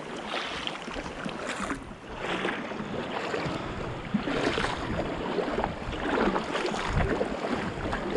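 Kayak paddle strokes splashing in the sea, one surge of water noise every second or so, with water washing along the hull of an inflatable kayak.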